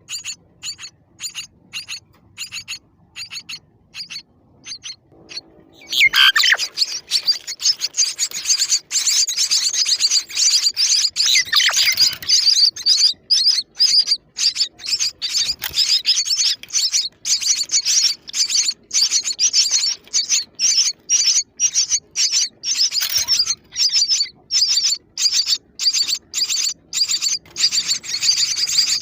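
Baby birds chirping: short, high chirps two or three a second, then from about six seconds in a loud, dense run of rapid chirps that keeps going.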